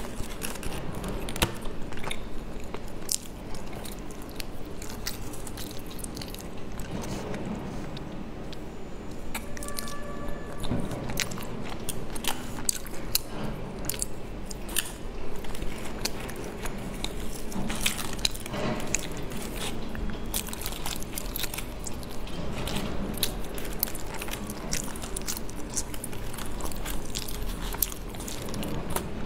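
Close-miked eating of soft mochi rice cakes: biting and chewing with many sharp wet mouth clicks and smacks. Clear plastic trays click and crinkle now and then as they are handled.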